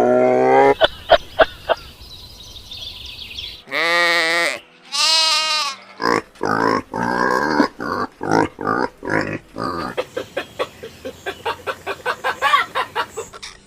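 A series of animal calls: a long call at the start, a few short clicks, two quavering, bleat-like calls about four and five seconds in, then a long run of short repeated calls that come faster toward the end.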